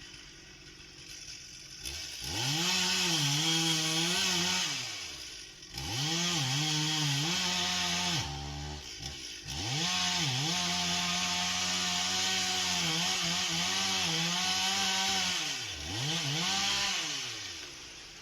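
Large two-stroke chainsaw revving up and cutting through a log in several passes, the engine pitch sagging under load and recovering, with brief drops to a lower pitch between cuts. The chain was dulled moments ago by striking a stone.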